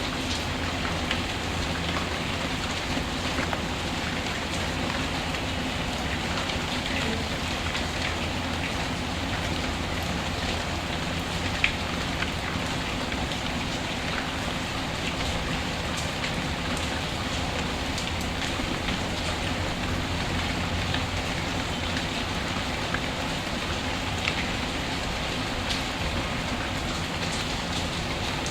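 Steady rain falling, with a fireplace wood fire adding scattered small crackles and pops, one louder pop about twelve seconds in.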